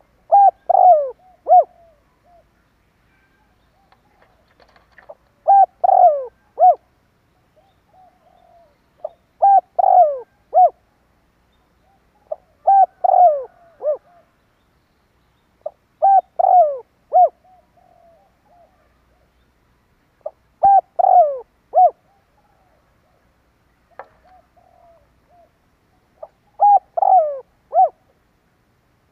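Spotted dove cooing: seven phrases, each a quick run of three or four coos, repeated about every four seconds, with faint soft notes between the phrases.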